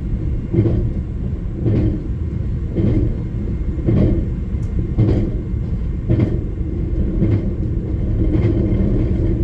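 Limited express train running at speed, heard inside a passenger car: a steady low rumble with a regular clack of the wheels over rail joints about once a second.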